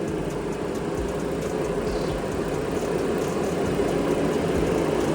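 Mr. Heater propane gas heater running with a steady, even noise, drying out the walls. A faint high chirp comes about every two seconds.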